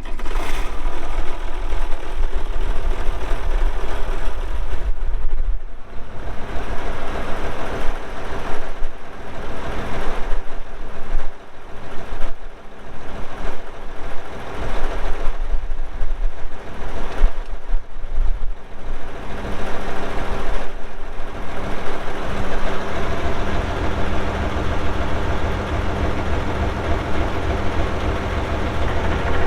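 1967 Oliver 1750's six-cylinder diesel engine running, uneven for the first twenty seconds or so, then settling into a steady idle for the rest.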